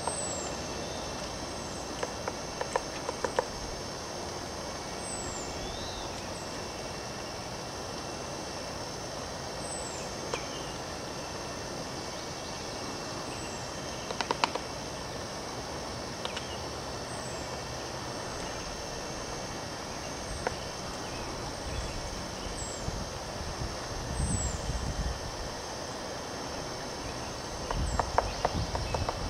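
Woodpecker pecking and tapping at wood in short bursts of sharp knocks, a few seconds in, about halfway through and again near the end, over a steady background hiss. A faint, high, short falling chirp repeats every second or two.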